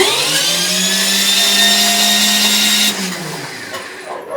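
Electric starter motor spinning the cold diesel engine of a Shifeng 244B tractor with the decompressor held open, a steady whine for about three seconds that then winds down and falls in pitch. Cranking without compression to prime the injector before a cold start.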